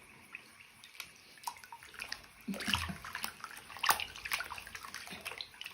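Water splashing and sloshing in a bathtub as a pet swims in it. It is faint at first, then a run of short splashes comes from about halfway through.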